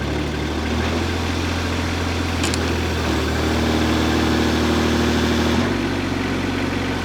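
Hightop HT20 Pro mini excavator's engine running steadily with the throttle raised. A higher steady tone joins it from about three seconds in, and the engine note changes about five and a half seconds in.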